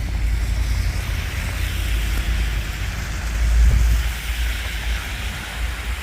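Wind buffeting the microphone in a low, steady rumble, swelling about three and a half seconds in, with an even hiss of outdoor street noise over it.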